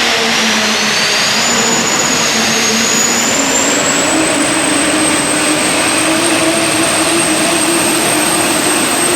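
Super stock diesel pickup truck running at full throttle while pulling the sled, with a loud, high turbocharger whine. The whine rises in pitch over the first few seconds and then holds steady.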